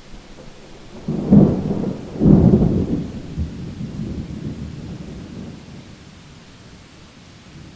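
Thunder: two sharp cracks about a second apart, the second louder, then a rumble that fades away over several seconds, over steady rain.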